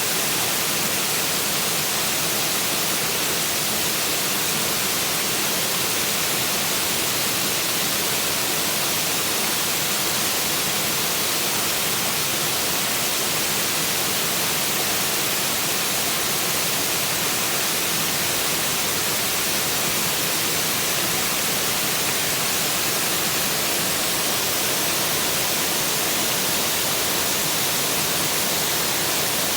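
Waterfall: a steady rushing hiss of falling water, unchanging throughout.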